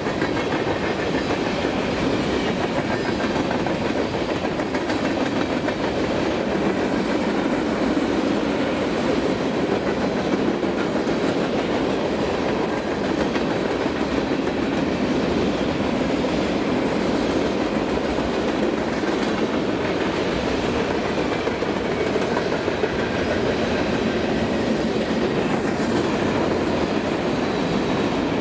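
BNSF freight train's cars rolling past, a steady, unbroken running noise of wheels on rail.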